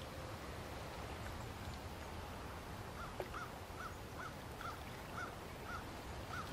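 Quiet outdoor ambience with a steady low background rumble; about halfway through, a bird starts a run of short, evenly repeated calls, about two a second.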